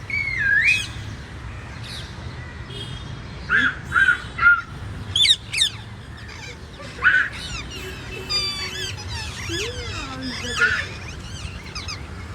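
Pet parrot calling: a string of short squawks and whistles that swoop up and down in pitch, with a quick rattling trill about eight seconds in.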